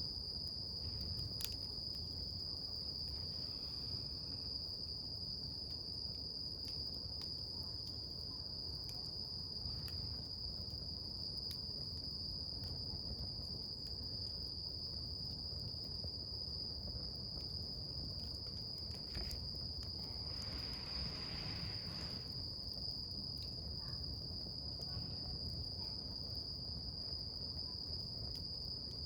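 Wood campfire burning, with scattered sharp crackles and pops over a low rumble, under a steady high-pitched insect trill.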